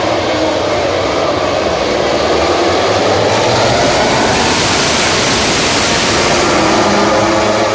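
MotoGP race motorcycles' four-cylinder engines running at high revs as the bikes pass. It is a loud, continuous engine wail that swells towards the middle and stays loud.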